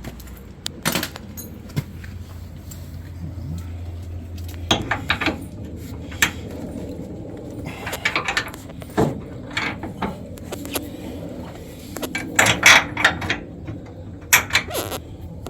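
Metal tools and hardware clinking and rattling as they are handled, in scattered clicks and short clusters, the busiest about five, eight and thirteen seconds in; a low hum stops about five seconds in.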